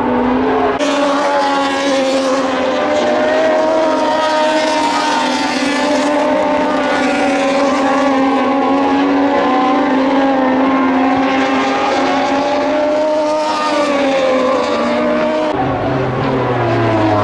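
Moto2 racing motorcycles with Triumph 765 cc three-cylinder engines running at high revs, several engine notes overlapping as bikes go by on track. Near the end the pitch falls as the engines come off the throttle.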